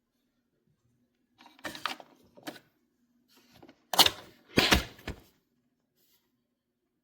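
A series of short knocks and clicks from something being handled, in two groups, the second louder with two sharp clunks.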